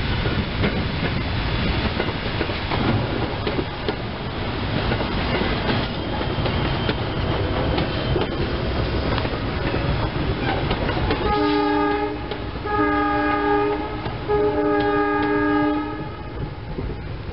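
SEPTA Silverliner electric multiple-unit train rolling past, its wheels clattering over the rails, then easing off as it pulls away. About eleven seconds in a train horn sounds three times: a short blast, then two longer ones.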